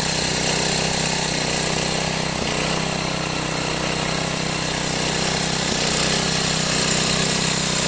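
Loud, steady machine noise with a low hum, like an engine running continuously at constant speed.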